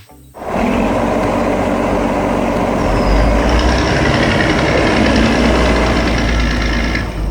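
Heavy truck engine running, starting abruptly about half a second in, with its low rumble growing stronger after about three seconds before it cuts off near the end.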